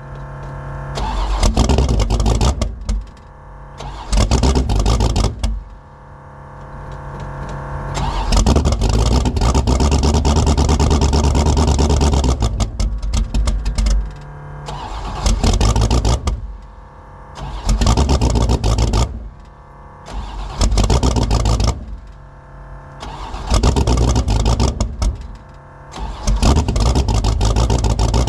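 Fox Body Mustang drag car's carbureted engine running cold and being blipped on the throttle again and again, surging loud for a few seconds each time, once for several seconds, and falling back to a rough low idle between. It is a cold start at about 20 degrees with no choke and an oversized 878 CFM carburettor, so the engine has to be kept alive with the throttle.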